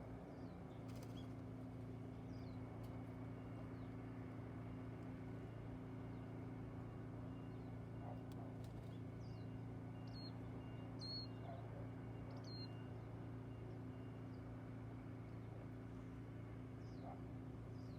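A few faint, short, high bird calls over a steady low hum; three calls come close together a little past the middle, and a few more near the end.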